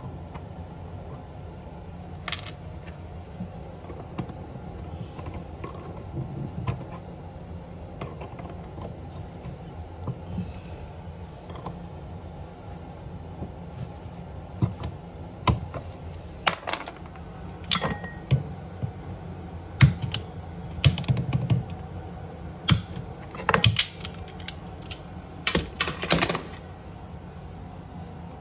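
Sharp metallic clinks and taps of metal tools and plumbing fittings being handled, scattered at first, then coming in quick clusters through the second half, over a low steady hum.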